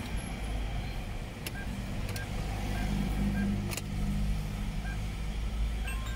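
Hyundai Tucson diesel engine idling steadily, now starting and running normally after a replaced crankshaft position sensor cured its long-cranking, hard-starting fault. A faint short beep repeats about every 0.7 s, and there are a few light clicks.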